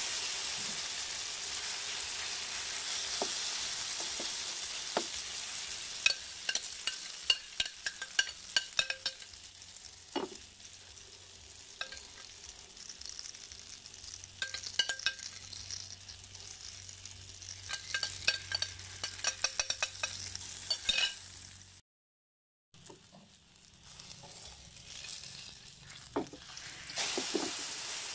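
Egg-battered eggplant frying in hot oil in a pan, a loud sizzle that slowly settles. A metal spoon clicks and taps against the pan many times as more beaten egg is spooned over it, and the sizzle picks up again near the end.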